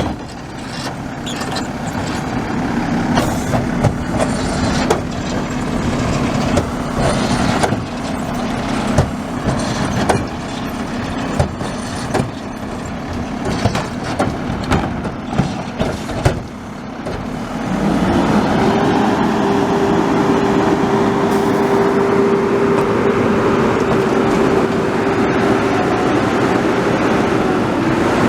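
Garbage truck engine running, with repeated clanks and knocks from the truck working. About 18 seconds in, the engine speeds up and holds a higher, steady pitch.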